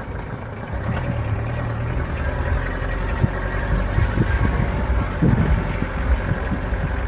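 Motor vehicle engine running steadily with a low rumble, with a few light knocks.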